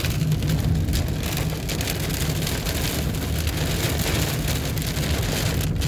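Heavy rain pelting the car's roof and windshield, a dense steady patter heard from inside the cabin over the low rumble of the moving car.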